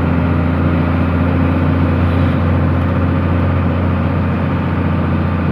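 A truck's engine running steadily under way, a low, even drone with no change in pitch.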